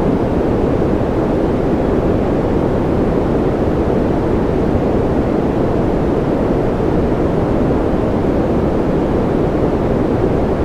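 Continuous white-noise track: a steady, unchanging hiss with most of its weight low and little treble, so it sounds deep and muffled rather than bright.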